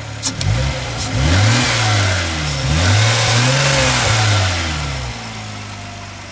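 1995 Jaguar Sovereign's 3.2-litre straight-six engine revved up from idle a few times, the last rev held for about two seconds, then dropping back to a steady idle about five seconds in. It runs smoothly with no squeaks.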